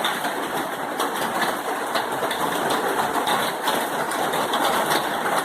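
Steady downpour of rain: a constant hiss filled with fine pattering drops, loud enough to drown a voice.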